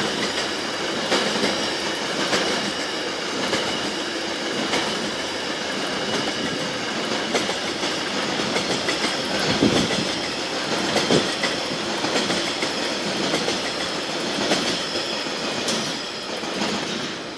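Coal train wagons rolling past, steel wheels clacking over rail joints in a regular rhythm of about one clack a second, with a thin steady high squeal from the wheels on the rails.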